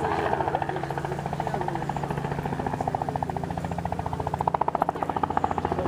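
Helicopter running, its rotor making a rapid, even chopping over a steady engine hum; the chopping grows louder about four and a half seconds in.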